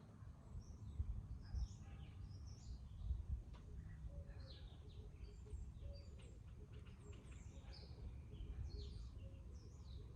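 Several small birds chirping and twittering in short, quick calls throughout, over a low rumble.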